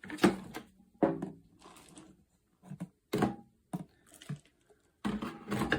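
Several short knocks and clicks from the coffee maker and its milk frother being handled, with light rustling between.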